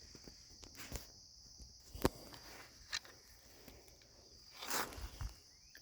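Footsteps on dry ground, a few irregular steps and a brief rustle near the end, over a steady high-pitched insect drone.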